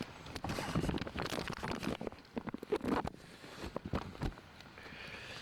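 Footsteps and rustling close to the microphone: a dense run of irregular knocks and crackles for about four seconds, easing off near the end.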